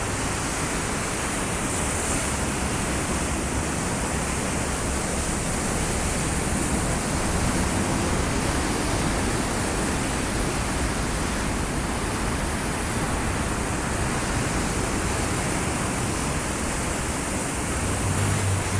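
Steady, even rush of ocean surf washing on a beach, with a low hum coming in near the end.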